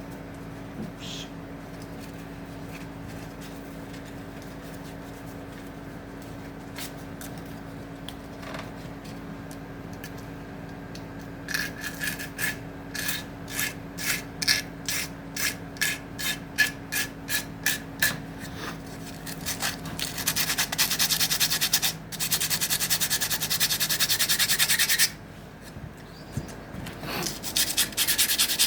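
Abrasive hand work on a piece of acacia wood. At first there is only a low steady hum. Then come rasping strokes at about two a second, followed by fast continuous rubbing that pauses briefly and starts again near the end.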